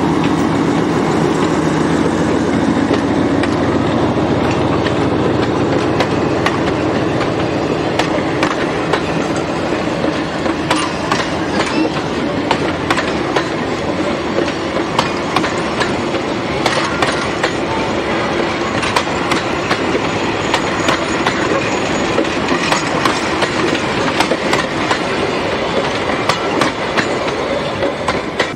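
Narrow-gauge diesel locomotive's engine running as it passes at the start, then a long train of passenger coaches rolling by, wheels clattering and clicking over the rail joints.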